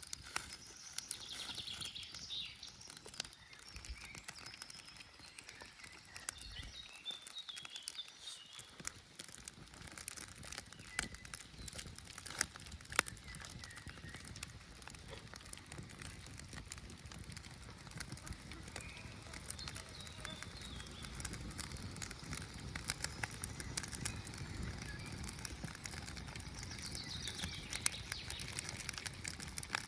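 Birch-bark campfire crackling with frequent small snaps, while birds chirp near the start and again near the end.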